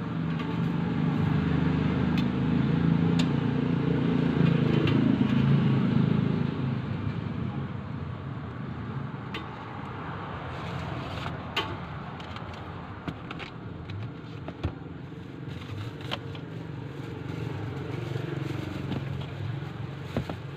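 A motor vehicle's engine, loudest over the first six seconds and then easing off to a lower hum, with sharp clicks and scrapes scattered through the second half.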